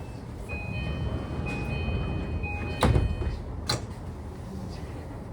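Interior sound of an E235-1000 electric multiple unit with Mitsubishi full-SiC MOSFET VVVF inverter: several steady high inverter whine tones come in about half a second in over a low rumble and cut out around three seconds in. Two sharp heavy thuds, the loudest sounds, come about three and four seconds in.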